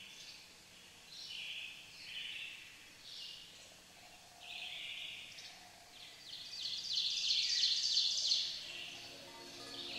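Birds chirping: a series of short, high chirps, with a louder run of rapid, repeated notes from about seven to eight and a half seconds in.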